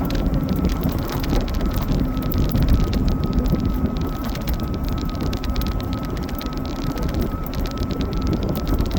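Philodod Forester dual-motor fat-tire e-bike riding along: wind rushing over the microphone, a faint steady motor whine, and fat tyres crackling over wet ground.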